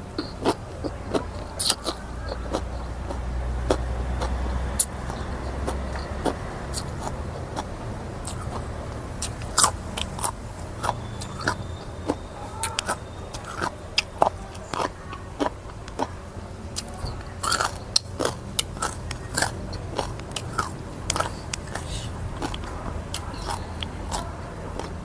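Close-up eating sounds of a person chewing and biting a spicy rice-noodle salad (sua khao pun): many sharp, irregular mouth clicks and smacks.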